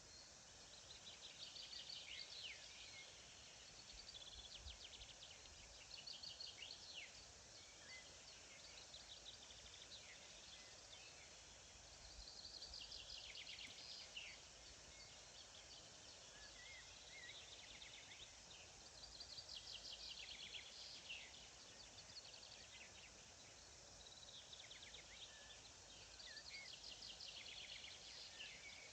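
A songbird singing short, rapid trilled phrases, about five in all, one roughly every six seconds, with a few soft chirps between them. Underneath is a faint steady hiss of open countryside.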